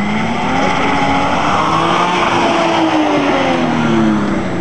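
Twin-turbo Toyota Supra's straight-six engine pulling hard, its pitch climbing for about two seconds and then falling away as it comes off the throttle.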